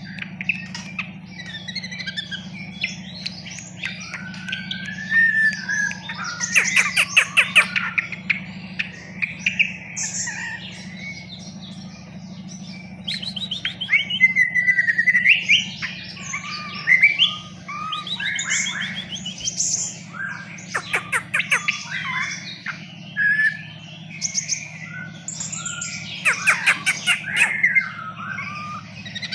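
Ashy drongo singing a varied song of whistled phrases, pitch glides and rapid rattling trills, delivered in loose bursts with short pauses. A steady low hum runs underneath.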